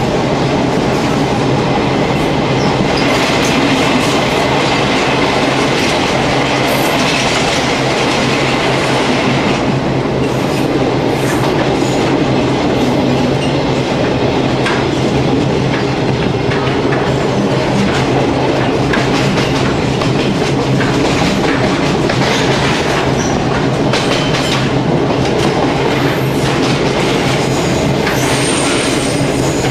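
NSW 620/720-class diesel railcar running along the line, heard from on board: a steady engine drone with the wheels clicking over the rail joints.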